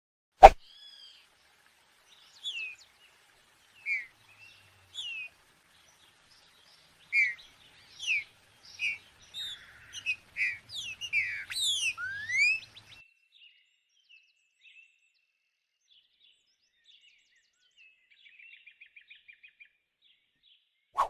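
A songbird singing a run of clear whistled notes, each a short slur gliding up or down, coming thick and fast in the middle before thinning to faint calls and a quick little trill near the end. A sharp click about half a second in is the loudest sound.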